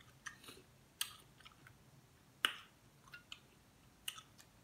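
A person eating close to the microphone: irregular sharp mouth smacks and lip clicks while chewing.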